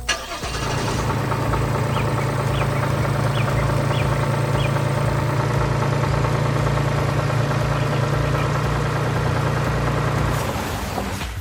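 A farm machine's engine running steadily, fading in about half a second in and dying away near the end. A few faint, short, high chirps sound over it in the first half.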